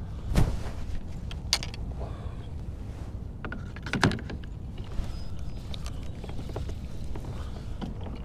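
Steady wind buffeting the microphone as a low rumble, with a few sharp knocks and clicks from gear being handled on a kayak, the loudest about half a second and four seconds in.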